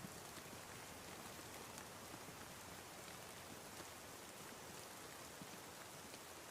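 Steady, faint rain falling, with scattered drops ticking.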